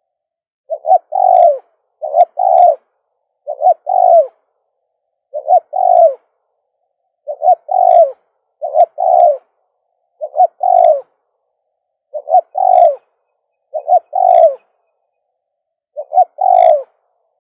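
Spotted dove cooing from its decoy cage: its repeated three-part coo, two short notes and then a longer one that falls at the end. The call comes about ten times, roughly once every 1.7 seconds.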